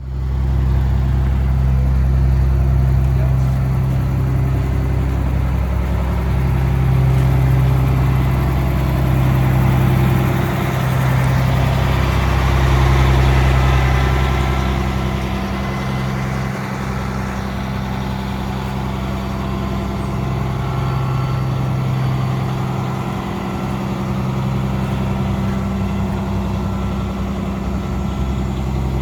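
Diesel engine of a CAT 345DL tracked excavator, a Caterpillar C13 inline-six, running steadily, getting slightly louder for a stretch in the middle.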